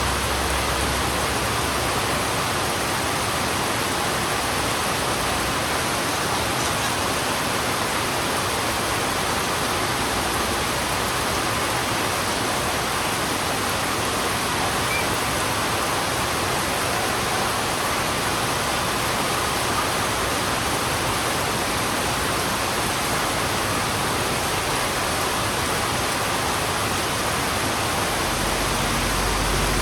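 Heavy rain falling steadily, an even hiss with no breaks; a low rumble starts to build near the end.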